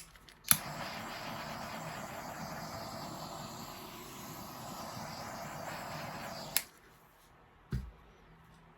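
Handheld electric blower switched on with a click, blowing steadily for about six seconds to push the wet paint across the canvas, then switched off with a click. A short low thump follows about a second later.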